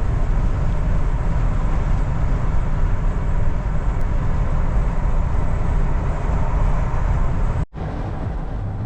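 Steady road noise from inside a moving car: tyre and engine rumble, heaviest in the low end. It cuts out abruptly for a moment about three-quarters of the way through, then resumes a little quieter.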